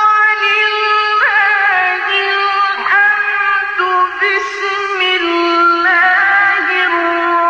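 A male reciter's voice chanting Quran in the ornamented mujawwad style, holding long drawn-out notes with wavering ornaments and sliding from one pitch to the next.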